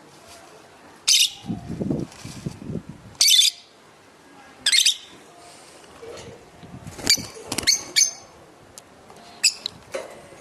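Lovebirds giving short, shrill chirps and squawks, about seven sharp calls at irregular intervals, some in quick pairs.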